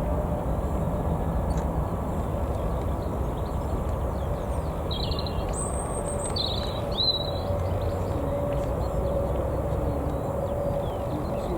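Jet airliner engines rumbling steadily, with a faint steady whine in the second half. Small birds chirp a few times in the middle.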